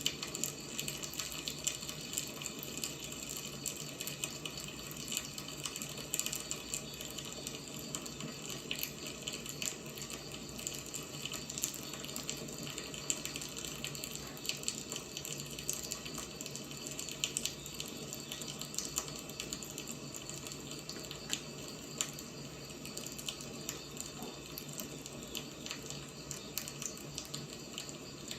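Wood fire burning, a steady hiss with frequent irregular crackles and small pops of burning firewood.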